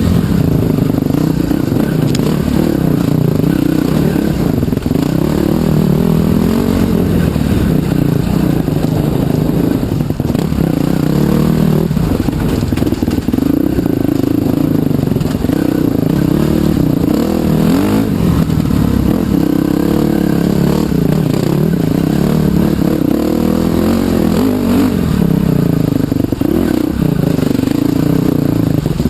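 Trail bike engine running on the move, its pitch rising and falling again and again as the throttle is opened and closed.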